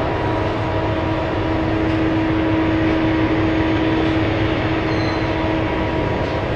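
Heavy vehicle running steadily: a constant rumble with a steady whine over it.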